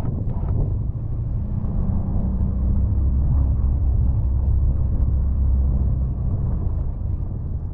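Can-Am Defender side-by-side running with a low, steady engine rumble that strengthens from about a second and a half in and eases off near the end.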